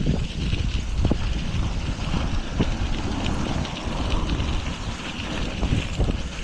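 Wind buffeting the microphone of a moving bicycle, a steady low rumble with a few short knocks.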